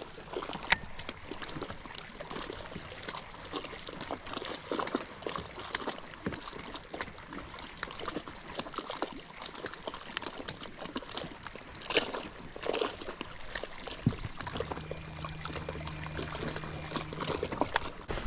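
Water trickling and splashing close by, with many small ticks and taps. A steady low hum comes in for a couple of seconds near the end.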